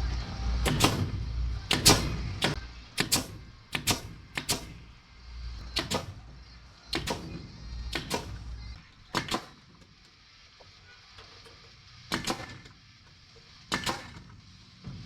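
Irregular sharp knocks and clacks, some in quick pairs, with a low rumble under the first several seconds.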